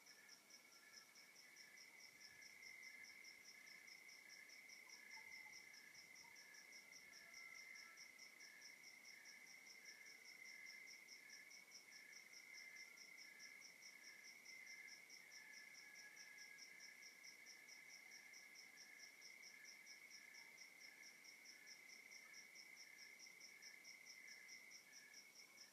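Faint night chorus of crickets and other insects: a steady high trill, with higher chirps pulsing evenly over it and a slower series of lower chirps.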